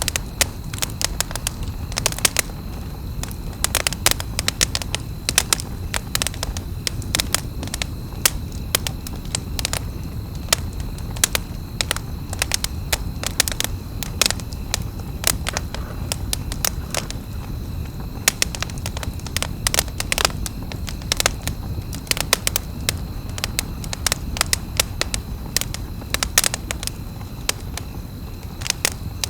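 Wood campfire crackling: many sharp, irregular snaps several times a second over a steady low rumble of the burning fire.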